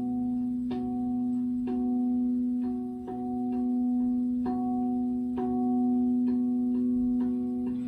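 A singing bowl's tone is held steady throughout. Over it, short ringing notes at a few fixed pitches are struck in an even, slow pattern, about one a second.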